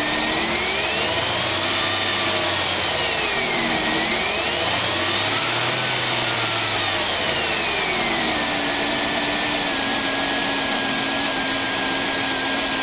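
2007 Chevrolet Silverado 1500's 5.3-litre V8 running, revved up smoothly and let back down to idle twice, then idling steadily.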